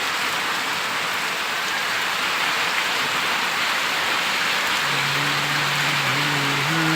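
Heavy rain pouring down in a dense, steady hiss. About five seconds in, a low, steady tone comes in under the rain and steps up in pitch a couple of times.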